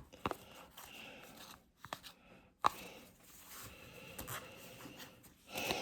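Trading cards being handled and sorted by hand: light rustling of card stock with several sharp clicks and taps, the loudest a little under three seconds in.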